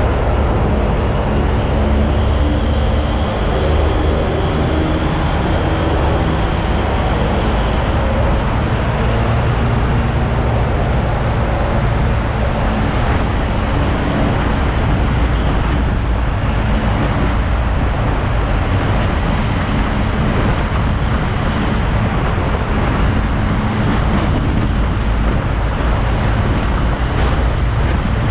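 Motor vehicle on the move, most likely a motorcycle: steady engine and road noise with no sharp changes.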